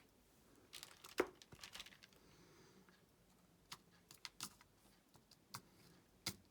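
Faint scattered clicks and rustles of diamond painting: a drill pen tapping resin rhinestones onto the sticky canvas, with light crinkling of plastic.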